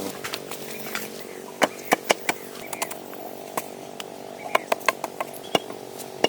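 Irregular sharp knocks and taps of work on wood, with a faint steady hum beneath them.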